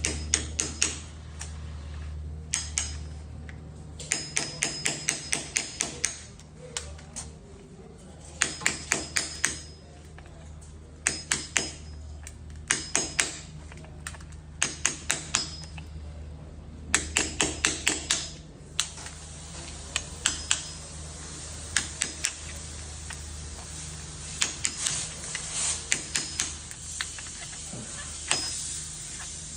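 Quick sharp hammer taps, several a second, in short runs of one to two seconds with pauses between, over a steady low hum.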